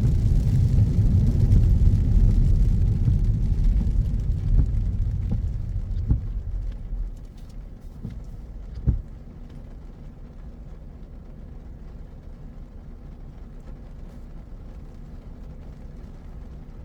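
Car interior during a drive in the rain: a low road-and-tyre rumble with some hiss that fades away over the first seven seconds, a single thump about nine seconds in, then a steady, quieter low hum.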